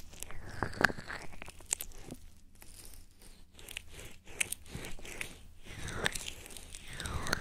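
Close-miked ASMR trigger sounds: a run of crisp clicks and crackles with swishing rubs against the microphone, louder near the end.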